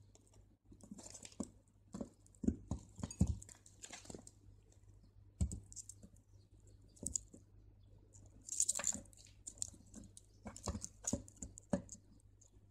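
Crystal beads clicking and tapping together as they are strung by hand, with the beading line rustling as it is pulled through them. The clicks are irregular and faint, with a few short rustling bursts.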